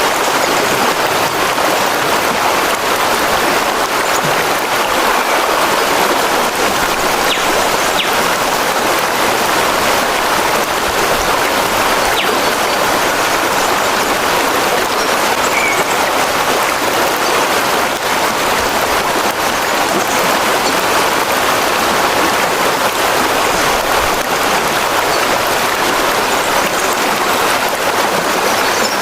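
Steady rushing of a flowing stream, an even wash of water noise without breaks.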